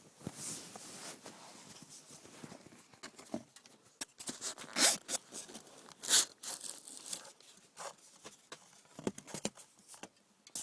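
Foam glider wings being pulled out of the foam fuselage: irregular scraping and rustling with small clicks, the two loudest scrapes about five and six seconds in.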